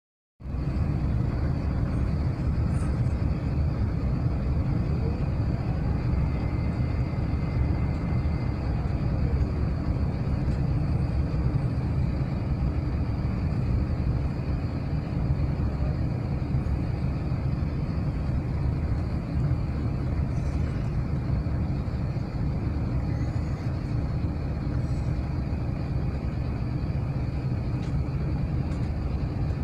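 Steady low rumble of cabin noise inside an Airbus A380 airliner, its engines and airflow heard through the cabin.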